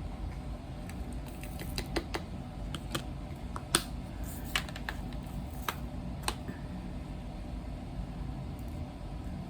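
A series of light, irregular clicks and taps, about a dozen, clustered in the middle of the stretch with one sharper click among them, over a steady low rumble.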